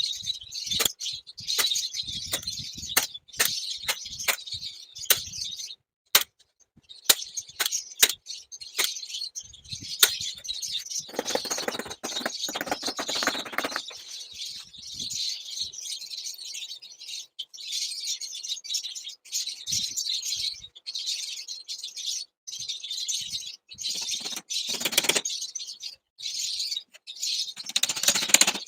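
A flock of small cage birds chirping and chattering continuously. Over it, a run of sharp hammer taps in the first several seconds, with a longer noisy stretch near the middle and again near the end.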